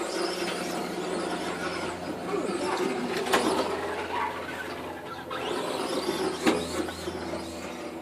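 Radio-controlled cars running, their motors whining up and down. There are two sharp knocks, about three seconds and six and a half seconds in.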